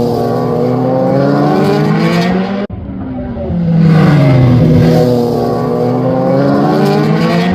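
A vehicle engine revving, its pitch dropping and then climbing again. It cuts off abruptly about two and a half seconds in, then repeats the same fall and rise.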